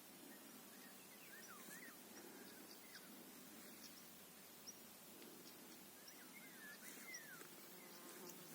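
Faint bird song: two short phrases of sliding notes, about a second and a half in and again about seven seconds in, over a faint steady background hiss.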